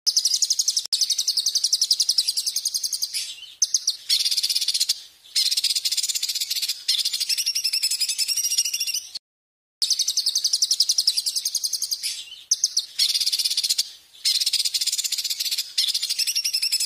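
A songbird's loud, fast, high-pitched trilling: long runs of rapid buzzy notes broken by short pauses, with a brief silence about nine seconds in before the same phrases start again, as in a looped recording.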